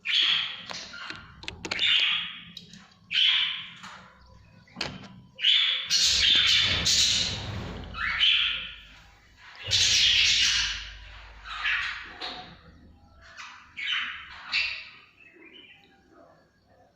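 One-month-old lovebird chicks calling: a run of harsh, raspy squawks and chirps, each about half a second to a second long, coming irregularly and tailing off near the end.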